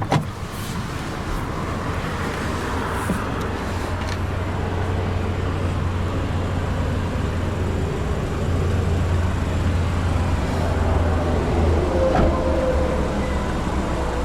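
A car door shuts with a sharp knock at the start. Then a steady low vehicle hum and road-like noise carry on.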